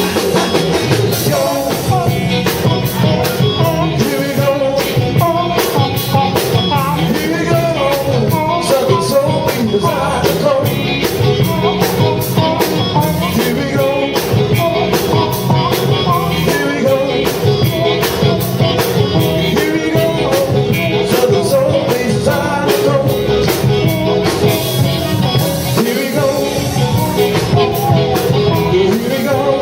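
A live band playing with a singer out front: a steady drum beat under keyboards and electric guitar, in a rock-and-roll and blues style.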